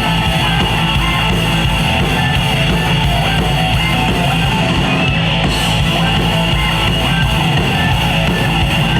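Live rock band playing an instrumental break, led by electric guitar.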